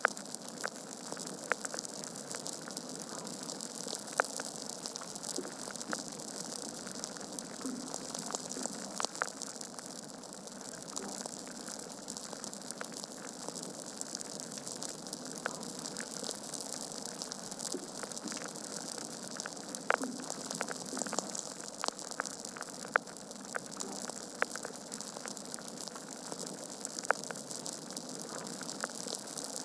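Wood fire burning in a fireplace: a steady hiss with irregular sharp crackles and pops from the logs, a few of them louder.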